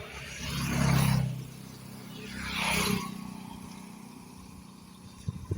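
Two road vehicles passing by one after the other, the first peaking about a second in and the second a couple of seconds later, over a low steady engine hum.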